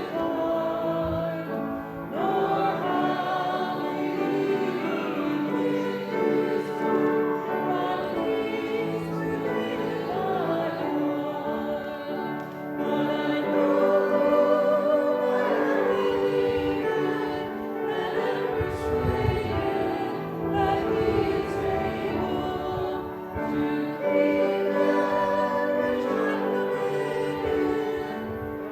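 Congregation singing a hymn together: many voices holding long notes that change in step, with instrumental accompaniment underneath.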